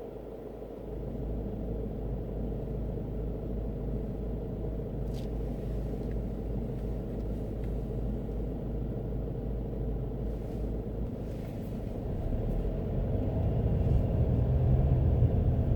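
Low, steady rumble of a car's engine and tyres on the road, heard from inside the moving car, growing louder over the last few seconds.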